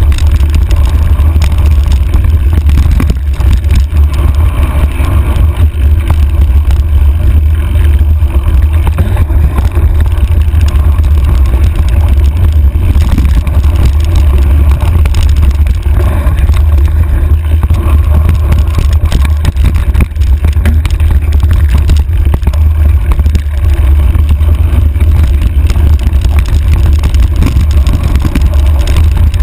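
Handlebar-mounted camera riding a mountain bike down a rough dirt trail: a constant low rumble of wind buffeting the microphone, peppered with small knocks and rattles from the bike and the trail.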